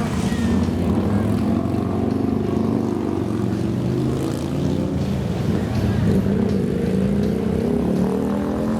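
Several motorcycle engines running and revving, with engine pitch rising and falling as the bikes pull away.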